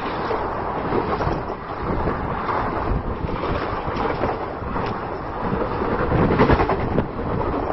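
Express train's passenger coaches rushing past at speed, about 110 km/h, across a bridge: a steady rumble of wheels on the rails, swelling a little about two-thirds of the way through, with wind buffeting the microphone.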